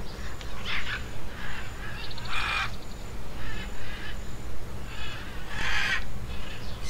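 Bird calls: about five harsh calls spaced a second or so apart, the loudest about two and a half seconds in and near the end, over a steady low hum.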